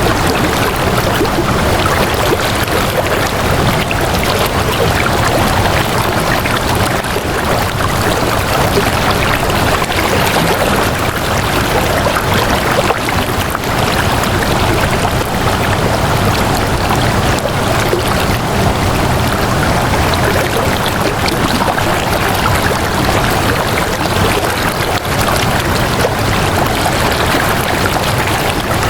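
Flowing water rushing steadily, like a stream, at an even level with no single splashes standing out.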